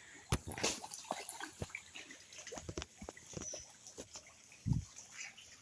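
Pond fish splashing and slapping at the water's surface as they take thrown feed: irregular small splashes and clicks, with one heavier low splash about three-quarters of the way through.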